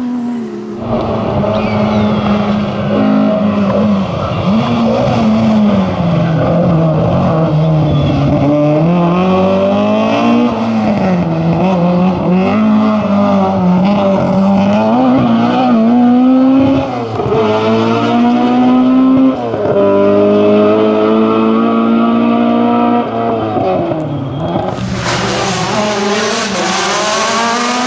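Rally car engine revving hard and falling back again and again as it changes gear, with some tyre squeal. A loud, wide hiss joins the engine near the end.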